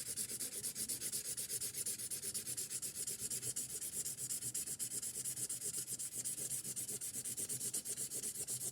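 Fine tip of a felt-tip marker scratching over paper in rapid, even back-and-forth strokes, layering colour over a fir tree.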